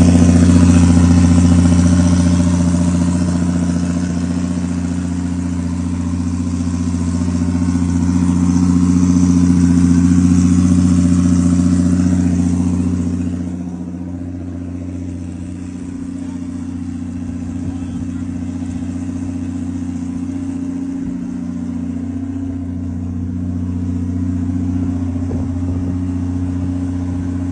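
Toyota Supra MK4's turbocharged inline-six engine running at a steady idle, its low tone unchanging; the brighter hiss above it fades about halfway through.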